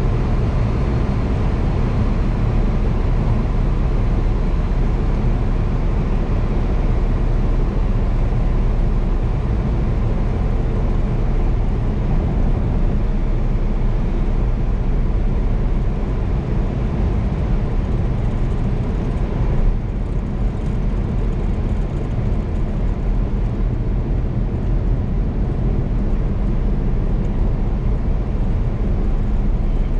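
Porsche Cayenne Turbo S twin-turbo V8 driving at a steady pace: a loud, even low drone of engine, exhaust and road noise with no revving.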